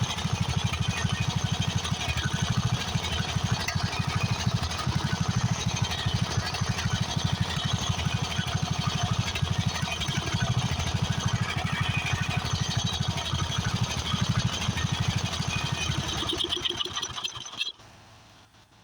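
13.5 hp Briggs & Stratton overhead-valve single-cylinder engine on a Craftsman riding mower running steadily with a fast, even firing beat while its fuel mixture is being adjusted; the owner says it may just need the mixture set, though it could be a blown head gasket. Near the end it dies down and stops.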